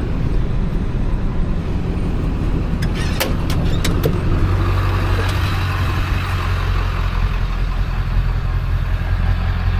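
Vehicle engine running with a steady low hum, and a few sharp clicks about three to four seconds in.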